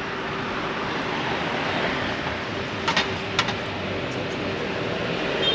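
Steady city street traffic noise, a continuous wash of passing vehicles, with two short sharp clicks about three seconds in.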